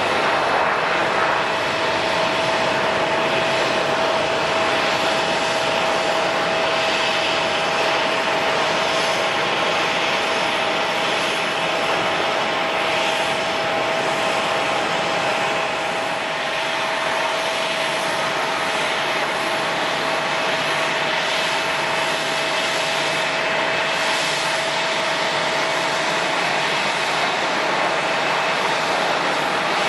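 Jet airliner engines running steadily: a constant whine of several fixed tones over an even rushing noise, holding level throughout.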